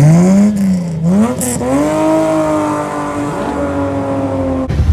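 Car engine revving hard: the revs climb, dip briefly about a second in, climb again and are held high and nearly steady for about three seconds, then drop off abruptly near the end.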